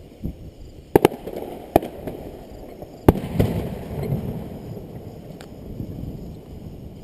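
Fireworks shells bursting overhead: a sharp double bang about a second in, another bang just under two seconds in, and the loudest bang a little after three seconds, followed by a low rumbling echo.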